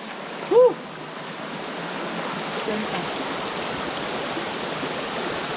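Flowing stream water rushing steadily, growing a little louder over the first couple of seconds. A short voice sound cuts in about half a second in.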